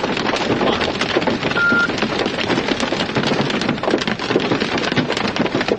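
Rain hitting the vehicle's windshield and roof in a dense, loud patter of drops, with one short electronic beep about a second and a half in.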